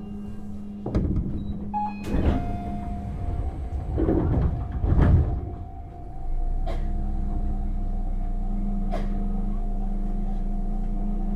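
Inside a Tobu Tojo Line commuter train car standing at a station: a few loud knocks and clatters from the sliding doors in the first five seconds. From about six seconds in, a steady, even electrical hum with a low rumble underneath.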